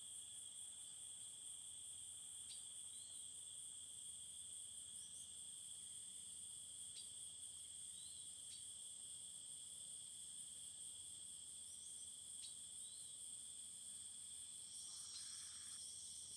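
A steady, high, continuous insect chorus, like crickets, sounding at two pitches at once. Faint short chirps come now and then.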